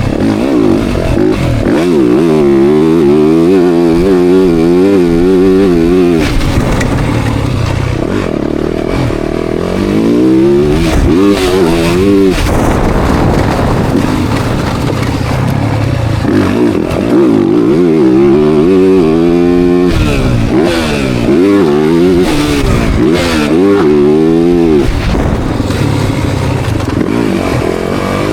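Dirt bike engine revving hard and easing off again and again, its pitch climbing and dropping every second or two as the throttle is worked through the gears around a motocross track.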